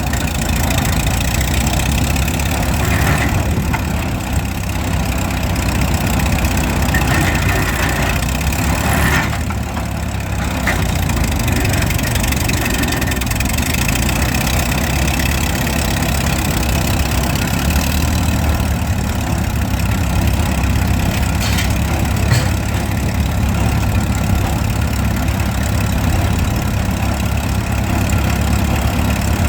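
Engine of a vintage Bay City shovel, which looks to be a McCormick power unit, running steadily at idle.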